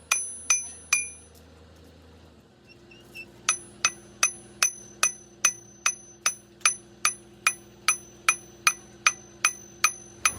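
Hammer blows on steel, each ringing with a clear metallic clang. There are three blows, a pause of about two seconds, then a steady run at about two and a half blows a second.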